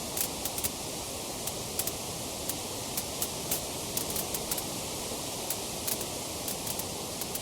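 Wood fire crackling in a fireplace: a steady hiss of flames with sharp little pops and crackles at irregular intervals, a few each second.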